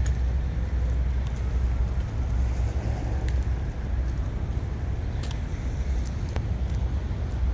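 Large vehicle engine running with a steady low rumble, with a few faint clicks over it.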